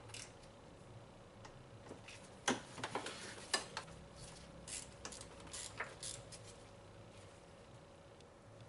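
Scattered metallic clinks and knocks of hand tools and metal parts being handled during an engine-bay repair, loudest in a cluster a few seconds in, over a faint steady hum.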